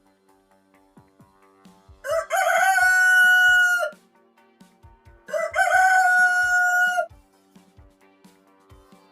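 A rooster crowing twice, each crow about two seconds long, rising at the start and then held, over faint background music.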